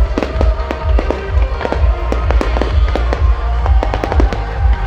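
Aerial fireworks display, with many shells bursting in quick, irregular succession as a string of sharp bangs and crackles. Loud music with a heavy bass plays over the bursts.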